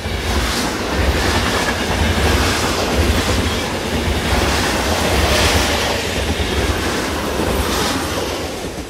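A train running on rails with a steady low rumble and occasional clacks, fading out near the end.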